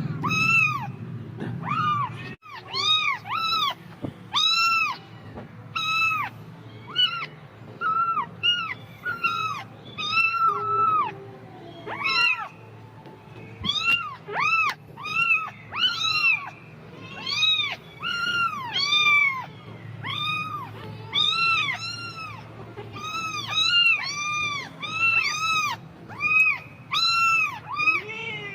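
Kitten meowing over and over, high-pitched meows that each rise and fall, coming about once or twice a second.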